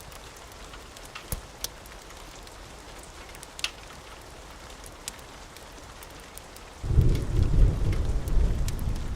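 Steady rain hiss with a few sharp crackles and pops, then a heavy roll of thunder that breaks in suddenly about seven seconds in and keeps rumbling.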